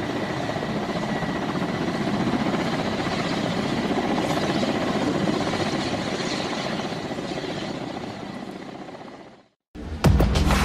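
Helicopter flying overhead: a steady rush of rotor and turbine noise with a faint steady whine, fading away near the end. It cuts to a moment of silence, then loud music with a heavy boom starts abruptly.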